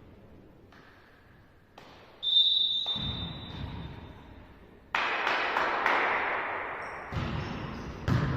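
A volleyball referee's whistle blows once about two seconds in. Then come sharp ball strikes and bounces that ring in a reverberant sports hall, loudest from about five seconds in.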